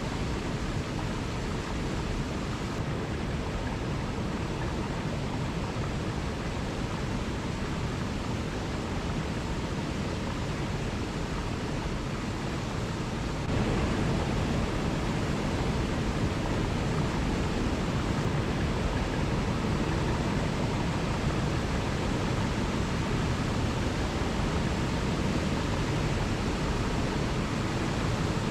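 Waterfall: a steady rush of falling water that becomes a little louder about halfway through.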